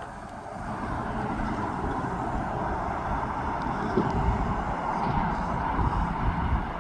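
A train running past, a steady rumble and rail noise that grows louder about a second in.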